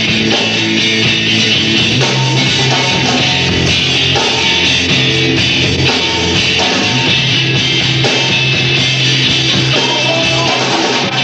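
Rock band playing live: distorted electric guitars, bass and drum kit, loud and steady.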